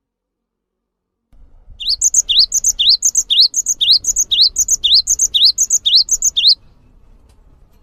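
Recorded song of a gelatik bird: a run of about ten sharp rising chirps at roughly two a second, which starts after a second or two of silence and stops about a second before the end over a low background hiss.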